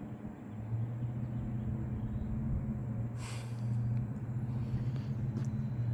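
A vehicle engine running steadily, a low even hum, with a brief rustle about three seconds in.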